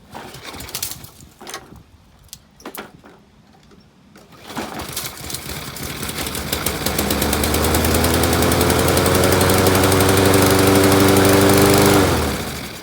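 Walk-behind lawn mower's small four-stroke engine being pull-started: a few short tugs, then about four and a half seconds in it catches on starting fluid and winds slowly up to speed, its hum rising in pitch. It runs steadily for a few seconds and cuts off near the end; the owner calls it an oddly slow start.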